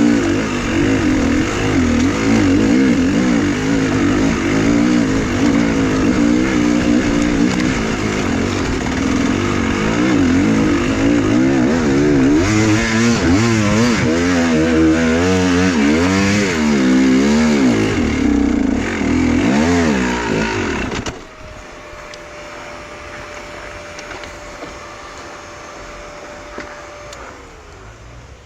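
Enduro motorcycle engine running under load, its pitch repeatedly rising and falling as the throttle works. About 21 seconds in the engine sound stops abruptly. What remains is much quieter, with a faint steady whine that drops in pitch near the end.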